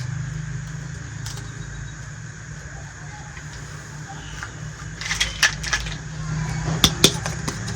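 Sharp clicks and taps of small plastic toy kitchen pieces being handled, a cluster about five seconds in and two louder ones near seven seconds, over a steady low background rumble.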